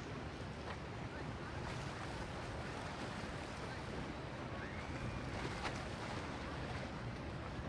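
Steady low rumble of passing motorboat engines over the wash of waves and boat wakes.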